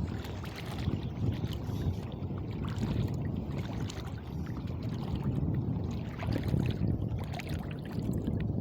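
Water sloshing and lapping close to the microphone: a low, irregular rumble with small scattered splashes.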